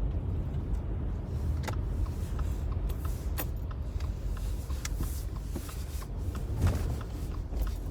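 Car cabin road noise while driving slowly on a slushy, snow-covered road: a steady low rumble of tyres and engine, with a few scattered sharp clicks.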